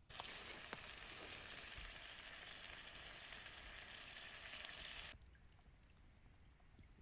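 Sizzling in a hot frying pan, a dense crackling hiss that starts abruptly and cuts off suddenly about five seconds in.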